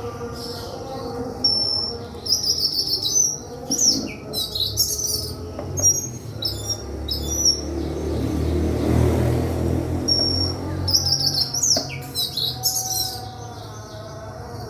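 Sikatan kerongkongan putih (a flycatcher) singing: repeated bursts of high, quick chirps and short trills, with a short break in the middle. A low rumble swells and fades under the song midway.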